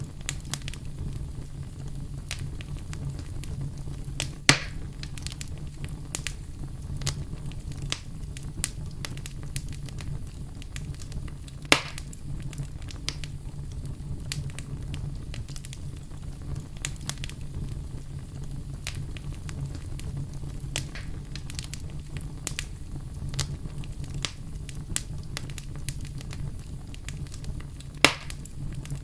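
Wood fire crackling: a steady low rumble of burning with a constant scatter of small snaps, and three sharp, louder pops of splitting wood, a few seconds in, about twelve seconds in and near the end.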